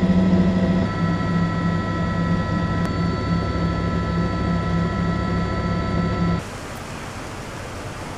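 A large engine running steadily at constant speed, a fire engine working at the fire scene, with a steady hum and a few steady higher whines. About six seconds in it cuts off abruptly to a quieter, even hiss.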